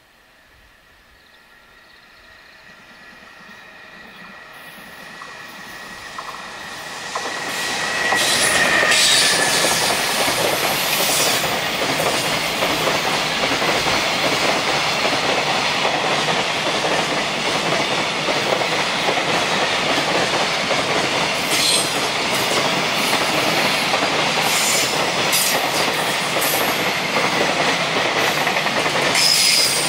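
A JR Freight EF210 electric locomotive hauling a long container freight train approaches and passes close by. The rumble swells steadily until the locomotive goes by about eight seconds in, with a high tone that falls slightly in pitch as it passes. After that comes the steady running noise of the container wagons' wheels on the rails, with a few sharper clanks.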